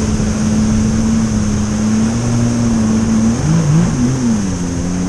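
Jet ski engine running at a steady pitch over a rushing hiss, its pitch wavering up and down during the last couple of seconds.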